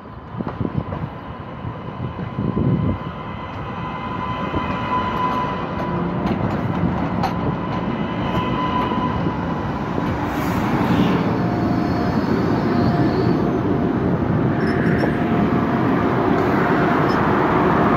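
Boston MBTA Green Line light-rail train pulling into a street-level platform, its rumble growing louder as the cars draw alongside. A thin steady whine rides over the running noise.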